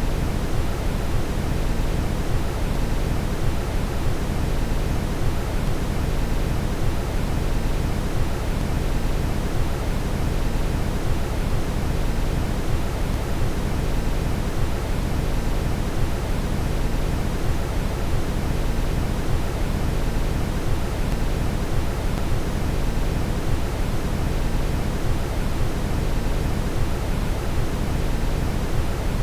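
Steady brown noise: a deep, even hiss with most of its weight in the low end and no change throughout.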